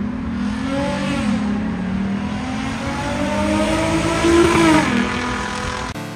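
Car engine revving, its pitch rising and falling and climbing to its highest and loudest about four and a half seconds in, then dropping away.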